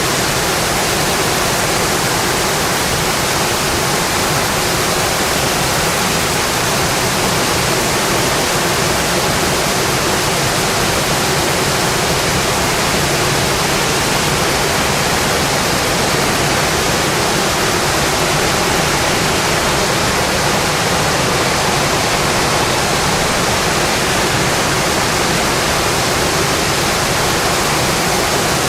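Heavy, steady rain drumming on a metal roof, an even dense hiss with no let-up.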